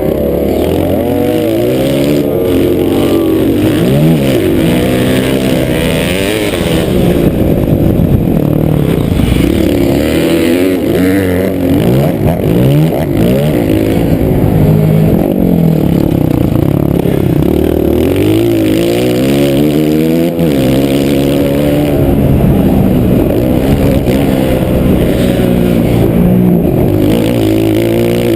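Motocross bike engine running hard on a track, heard up close from an onboard camera. The revs climb and drop over and over as the rider opens and closes the throttle and shifts.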